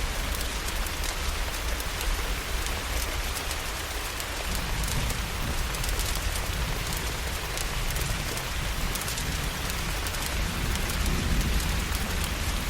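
Steady heavy rain, with many small sharp crackles scattered through it and a deep low rumble that swells near the end, like thunder rolling in.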